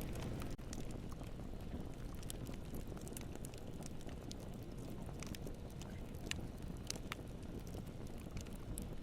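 Campfire burning: a steady low rumble of flames with scattered sharp pops and snaps of the wood.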